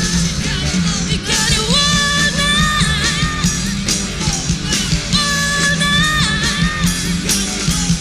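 Loud rock music from a full band: drums, bass and a lead line of long held notes that bend in pitch.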